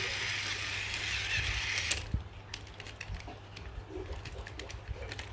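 Small toy-car electric motor and plastic gears whirring for about two seconds, then stopping abruptly, followed by scattered light clicks of plastic parts being handled.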